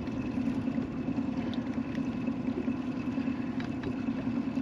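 Boat motor running steadily at trolling speed, a low even hum.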